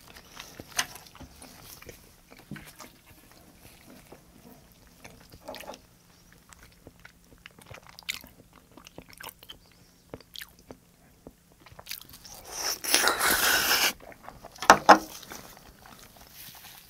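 Close-miked chewing and eating: wet mouth sounds and small crunchy clicks. About twelve seconds in, a louder rough noise lasts roughly two seconds, followed by a couple of sharp louder clicks.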